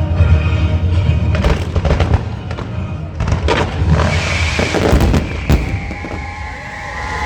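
Aerial fireworks going off in a run of sharp bangs over background hip-hop music, the music fading out partway through. Near the end a hiss with several overlapping whistling glides takes over.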